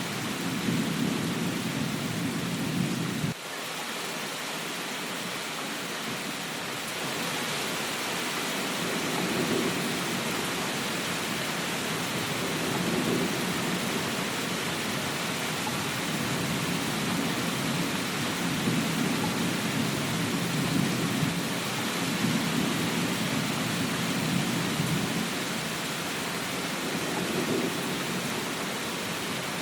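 Steady rain hiss with a low rumble underneath that swells and fades every few seconds. The rumble cuts off suddenly about three seconds in and builds back up.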